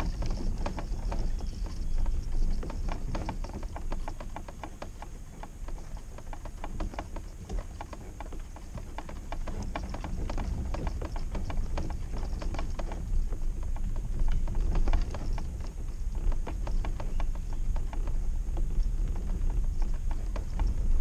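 Homemade kayak cart rolling under a loaded kayak: a steady run of rapid clicks and rattling knocks from the wheels and frame over a low rumble.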